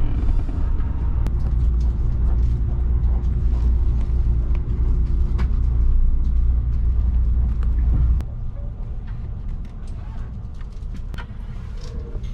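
Kintetsu Hinotori electric express train running, heard from inside the passenger cabin as a steady low rumble with scattered small clicks and taps. The rumble drops noticeably about eight seconds in, and a faint steady hum sits under it for a few seconds early on.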